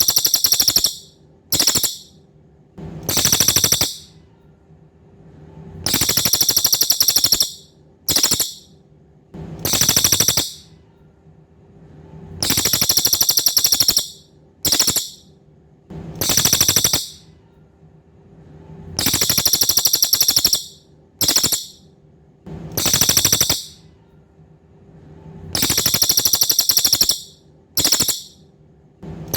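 A cililin songbird calling in rapid, buzzy, high-pitched trills. Each round is a long trill, a short chip, then a shorter trill, and the same pattern comes round about every six and a half seconds, five times in all, as in a looped recording.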